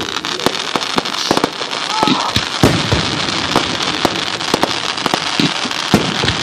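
Fireworks going off: a dense, steady crackle, like crackling stars, with many sharp pops and bangs scattered throughout.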